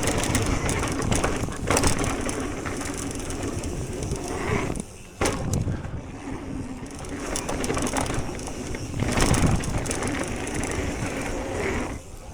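Propain electric mountain bike ridden down a dirt trail: tyres crunching over dirt and rock, with the bike rattling over the bumps. The noise drops away briefly about five seconds in.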